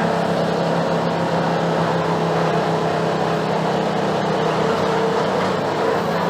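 Mercedes-Benz OF-1721 BlueTec 5 bus's six-cylinder diesel engine running steadily under way, heard from inside the bus as a constant drone.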